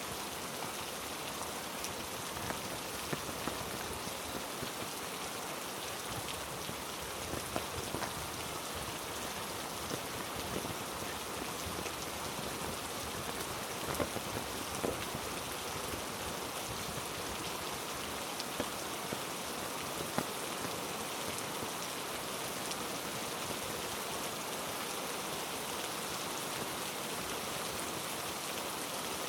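Heavy rain falling on rainforest foliage: a steady, dense hiss with a few brief, sharper clicks scattered through it.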